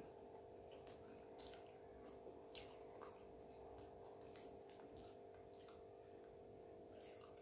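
Faint chewing: a person eating, with irregular soft mouth clicks, over a steady low hum.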